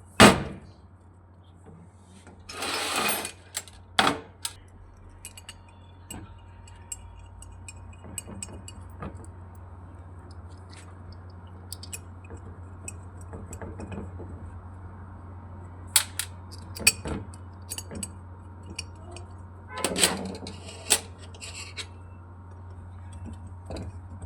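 Hand tools and metal parts clinking, tapping and knocking during repair work on an AC compressor. A loud knock comes at the start, a short scraping burst a few seconds in and another near the end, with scattered light clicks between, over a steady low hum.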